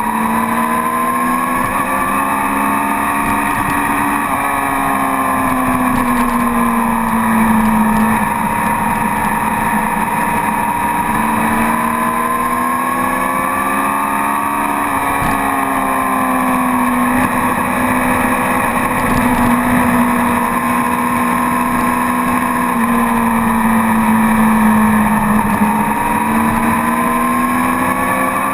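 Sport motorcycle engine running under way at moderate revs, heard from the bike itself. Its pitch climbs and falls slowly several times as the throttle is opened and eased, with one quick drop about fifteen seconds in.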